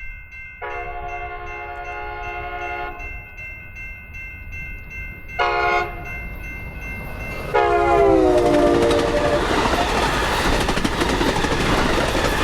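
Electronic crossing bells ringing rapidly while a passenger train's horn sounds a long blast, a short one, then a final long blast that drops in pitch as the cab car passes the crossing. The train then runs through the crossing with loud, steady wheel-on-rail noise.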